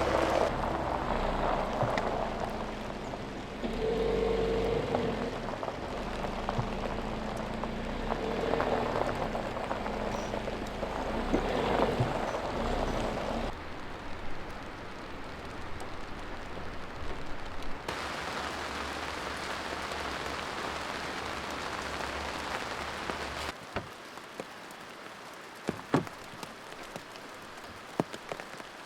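Rain falling steadily, in several stretches that change abruptly in level and tone. In the last few seconds a few sharp single drop hits stand out.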